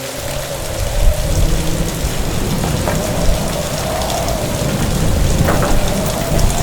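Heavy rain falling, with a deep rumble of thunder that swells in about half a second in and rolls on without a break. A faint wavering tone, like wind howling, runs over it.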